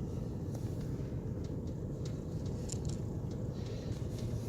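Car driving along a snowy street, heard from inside the cabin: a steady low rumble of engine and tyres, with a few faint clicks.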